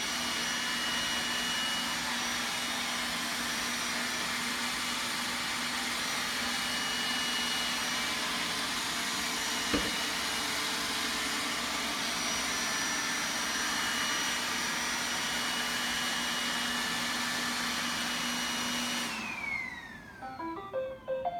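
Roomba robot vacuum running steadily, its motor and brushes whirring with a high whine, as it heads back to its dock. There is a single knock about ten seconds in. Near the end the motor winds down, its pitch falling away.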